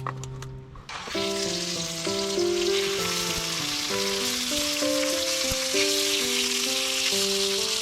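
Food sizzling in a hot sandwich maker, starting suddenly about a second in as a steady hiss of frying, under background music.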